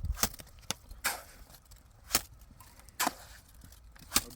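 Repeated sharp strikes, about one a second, each followed by a short ring, like blows of a hand tool being chopped or swung against something hard.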